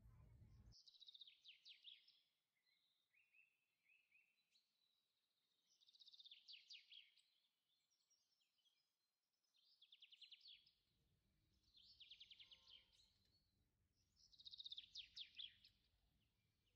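Faint bird song: several short, high trilled phrases, each a quick run of notes, repeating every few seconds.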